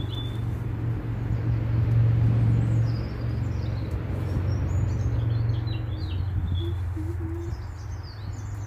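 A steady low rumble that swells to its loudest about two seconds in and then slowly eases, with small birds chirping rapidly over it from about three seconds in.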